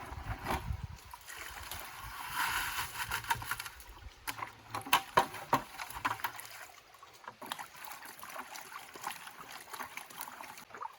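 Water sloshing in a gold pan with gravel rattling against it, with a few sharp clicks of stones about halfway through.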